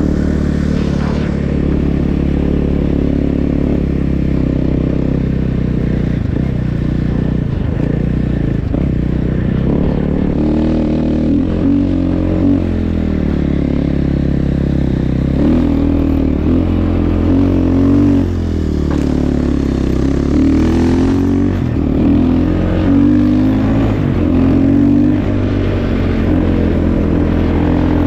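Snow bike engine (a dirt bike converted with a track and front ski) running under way, its pitch rising and falling again and again as the throttle is worked.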